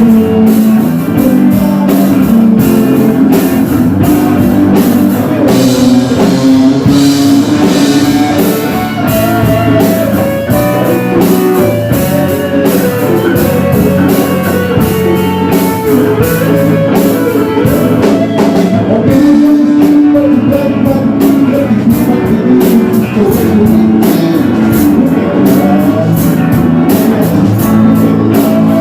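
A live band playing loud rock music: guitar over a steady drum-kit beat.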